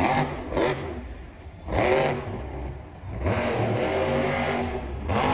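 A vehicle engine revving up and down, with a strong rev about two seconds in and steadier running after about three seconds.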